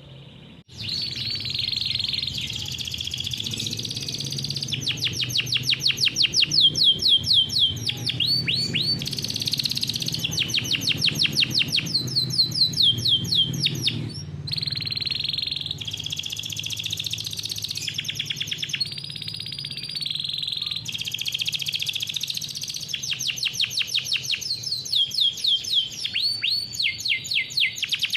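Domestic canary singing a long, unbroken rolling song: rapid trills of high notes, each repeated many times a second, switching from one trill to the next every second or two. The song starts about half a second in after a short pause.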